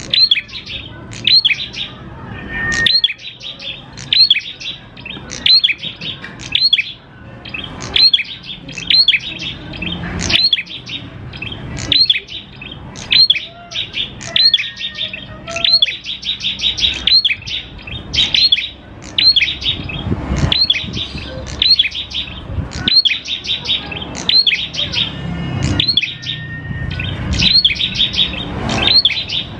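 Prenjak klawu (a prinia) singing a continuous run of sharp, high chirps at about two a second.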